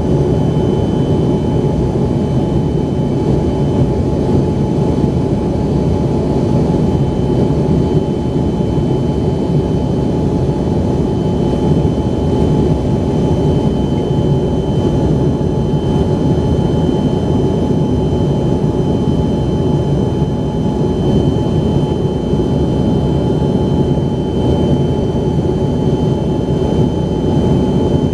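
Embraer ERJ-135's rear-mounted Rolls-Royce AE 3007 turbofans heard from inside the passenger cabin: a steady, loud rumble of engine and airflow noise with a few faint, constant whining tones above it.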